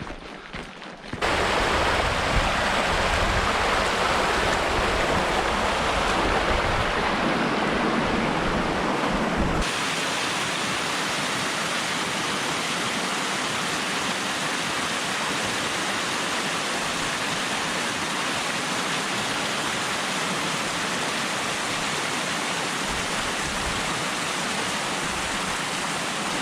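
Rushing mountain stream, a steady hiss of running water. It starts abruptly about a second in and changes suddenly about ten seconds in to a slightly quieter rush with less low rumble.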